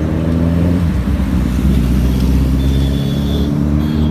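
Motor vehicle engine running steadily over a strong low rumble, its pitch shifting slightly near the end.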